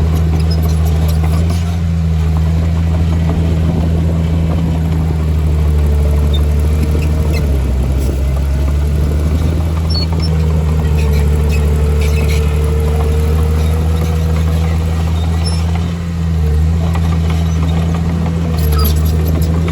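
Diesel engine of a crawler bulldozer running steadily, a low drone with a thin whine over it that dips briefly a couple of times, and scattered light clicks and rattles.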